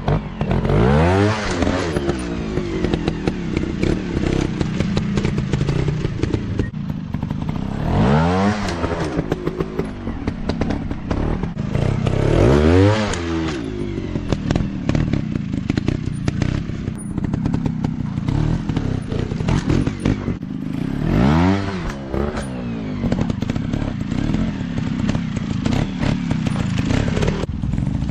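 Off-road dirt bike engines running, with the revs rising sharply in bursts four times: near the start, about a third of the way in, a few seconds later, and about three quarters of the way through. Between the bursts the engines run at lower revs with some clatter.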